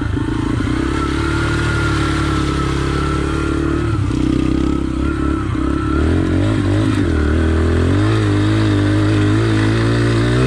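Single-cylinder dirt bike engine running hard under throttle, its note dropping and climbing again around four and six seconds in, then wavering near the end.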